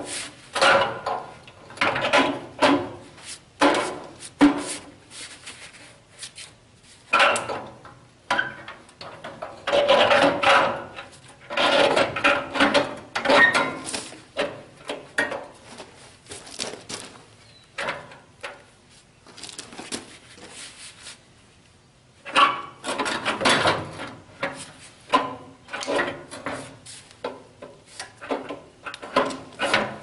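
A new radiator being worked by hand into a Case 580C backhoe's radiator frame: irregular metal scraping, rubbing and knocking as it is shifted and pushed into place, with a short lull about two-thirds of the way through.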